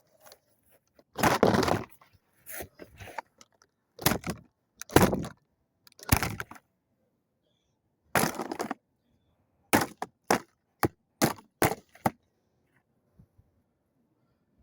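A plastic toy microwave being smashed: a series of hard blows with plastic cracking and breaking, ending in a quicker run of about six strikes.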